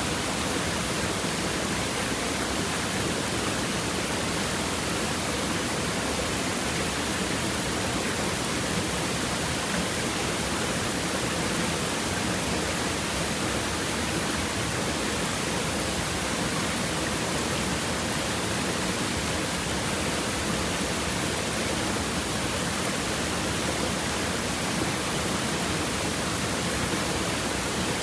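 A rocky stream's water babbling and splashing over stones, an even, steady rush with no change.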